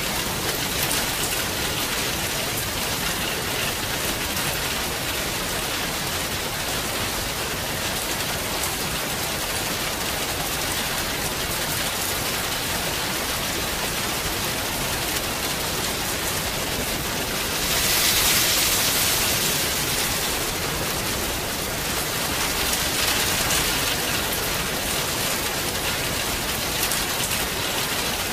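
Steady rain falling, with a heavier surge for a couple of seconds about two-thirds of the way through.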